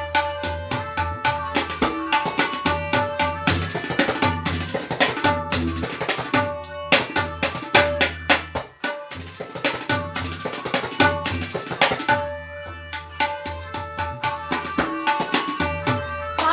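Tabla played solo in teentaal: a dense run of rapid strokes on the dayan and bayan, with a short break about eight and a half seconds in before the strokes resume.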